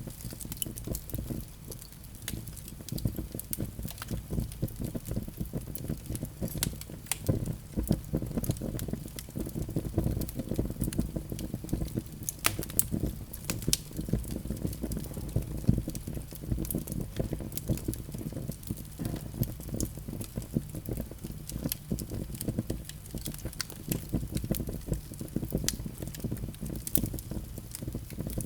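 Fire burning in a fireplace: a steady low rush of flame with frequent, irregular sharp crackles and pops.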